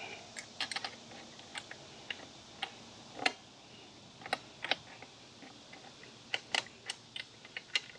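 Scattered sharp metallic clicks and taps, irregularly spaced and sometimes in quick clusters, as a wrench is worked on a motorcycle bolt to loosen it.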